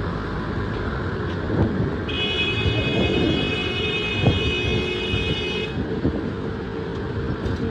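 Road traffic noise with vehicles passing. About two seconds in, a steady high-pitched tone is held for about three and a half seconds, then cuts off.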